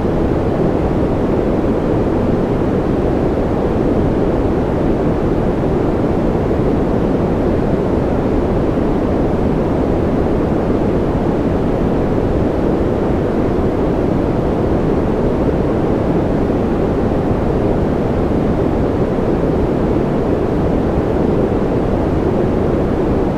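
Steady, unchanging noise from a sleep-noise track: a deep, even rush with most of its weight low and little treble, and no drops, clicks or variation.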